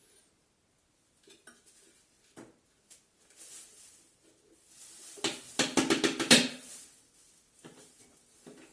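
Hard parts of a vacuum cleaner clicking and clattering as it is handled and taken apart: scattered single clicks, then a burst of rapid rattling clicks in the second half.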